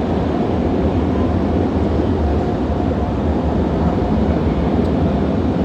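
Tunnel car wash dryer blowers blasting air over the car, a loud, steady rush of air.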